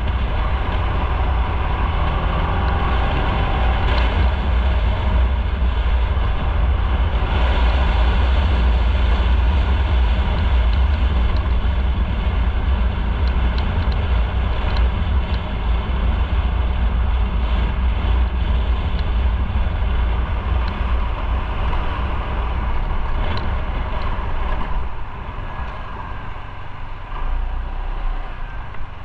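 Motorcycle running at road speed, a steady rumble with road and wind noise that eases a little near the end.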